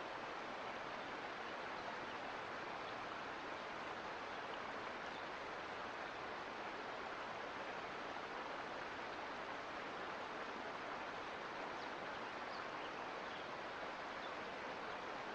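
Mountain creek flowing over rocks, a steady even rush of water.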